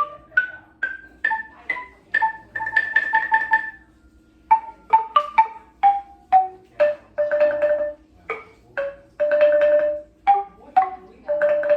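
A traditional ethnic-minority tuned percussion instrument played by a beginner. Single struck notes step up and down through a few pitches, alternating with stretches of fast repeated strikes on one or two notes.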